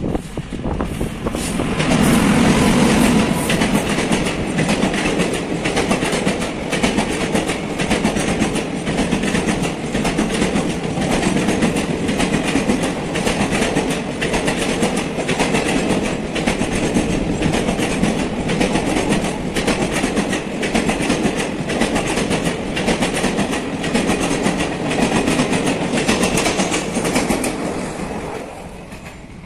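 Electric-hauled Indian Railways express passenger train passing close by at speed: a loud rolling rumble with a regular clickety-clack of wheels over rail joints. It builds about a second or two in and drops away near the end.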